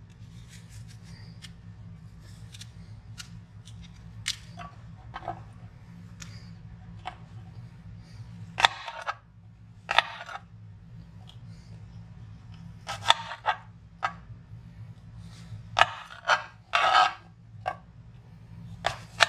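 Kitchen knife cutting apples on a cutting board: irregular short taps and scrapes of the blade, with a steady low hum underneath.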